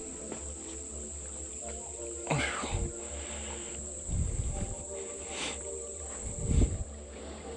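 Steady high-pitched drone of insects such as crickets, with a few low thumps about two, four and six and a half seconds in.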